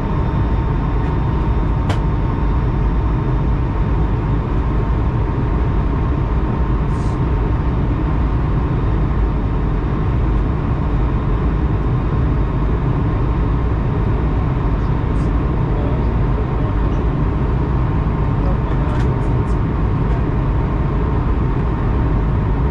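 Airbus A220-100 airliner running steadily: a loud, even low rumble with a constant hum and a few faint clicks.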